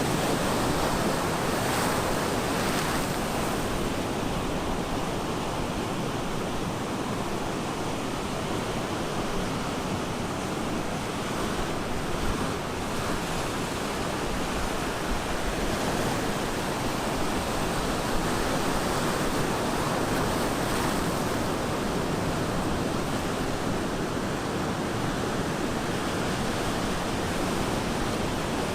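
Ocean surf breaking and washing on a beach: a steady, continuous rush of waves with gentle swells in loudness.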